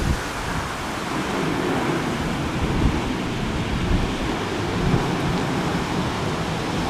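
Strong crosswind buffeting the microphone: a steady rushing noise with heavy low thumps.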